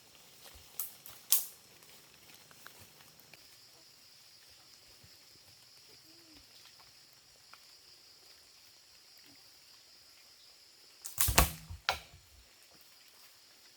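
Sharp knocks: two about a second in and a quick run of them near the end, over a faint steady high-pitched drone.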